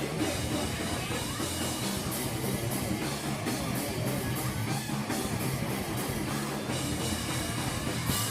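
Live rock band playing loudly, with electric guitars and a drum kit. A loud hit lands near the very end, after which the band sound gives way to held, ringing notes.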